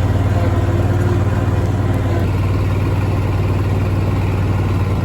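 Farmall tractor engine running steadily at close range, its sound turning a little rougher about two seconds in.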